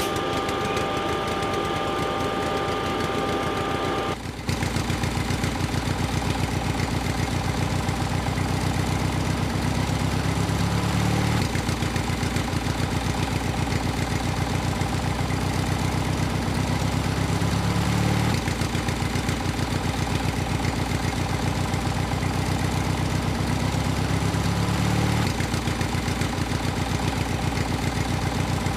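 Tractor engine idling with a rapid, even chug, kicking in about four seconds in and repeating in stretches of about seven seconds, like a looped engine sound. Before it, a steady higher-pitched hum.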